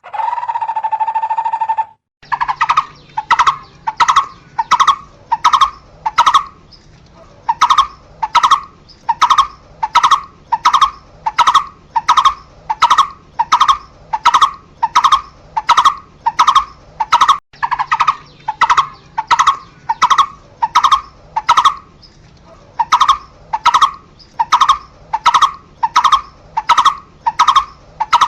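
Barbet (cu rốc) calling: a long series of short single notes, repeated about one and a half times a second with a couple of brief pauses. A steady held tone comes first, lasting about two seconds.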